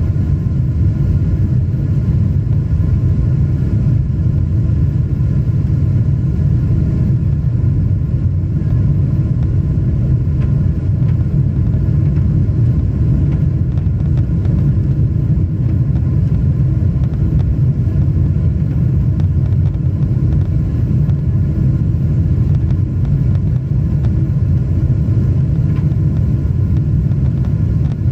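Jet airliner's engines and airflow heard inside the cabin in flight: a steady, deep rumble with faint steady tones above it. The engines are throttled back for a level-off at about 1000 ft and a 250-knot speed limit soon after takeoff.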